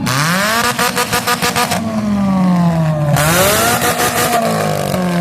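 Demolition derby cars' engines revving hard, pitch climbing and falling twice, with a rapid run of knocks through the first two seconds.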